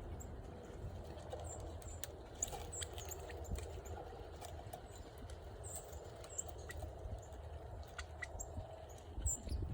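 Small birds giving short, high chirps, with scattered sharp clicks over a low, steady rumble.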